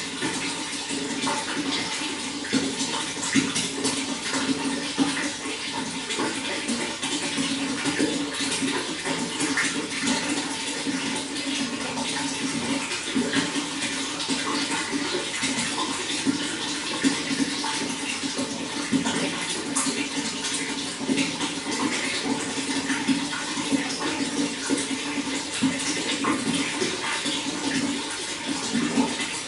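Running water, a steady splashing flow dotted with many small splashes and drips.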